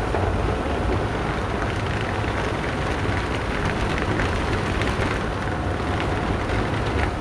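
Electric air blowers running steadily, inflating an inflatable paint booth: a constant blowing hum with a strong low drone.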